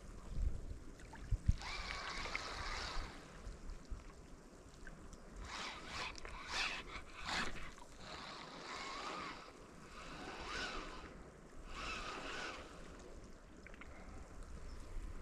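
Sea water washing and lapping against rocks in irregular swishes, with a few light clicks among them over a low rumble of wind on the microphone.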